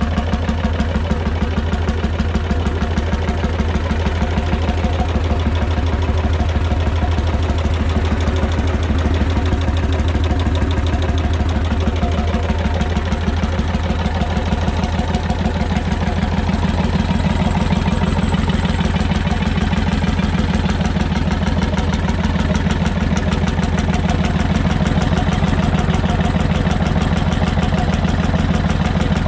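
9/11 hp McDonald PB two-stroke 'super diesel' engine running steadily with a fast, even firing beat.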